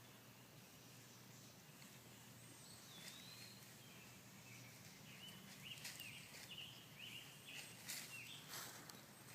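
Faint bird chirps: a single sliding whistle about three seconds in, then a run of short, quick chirps through the second half, with a few soft clicks.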